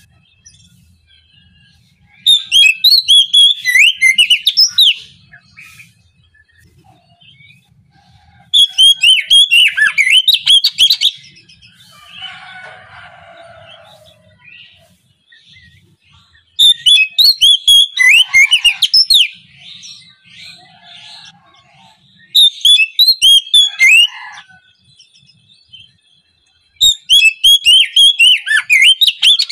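Oriental magpie-robin (kacer) singing loud bursts of rapid, varied notes. There are five phrases of about two to three seconds each, with quieter gaps of a few seconds between them.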